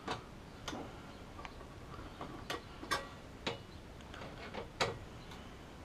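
Scattered small clicks and taps, irregularly spaced, as an SSD and screws are fitted to the rear drive mount of a PC case with a screwdriver.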